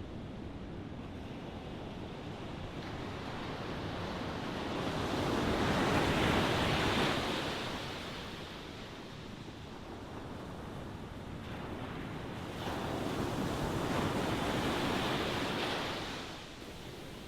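Ocean waves washing onto a shore: a steady hiss of surf with two waves swelling and breaking, the first building to its loudest about six seconds in, the second around fourteen seconds in and falling away quickly near the end.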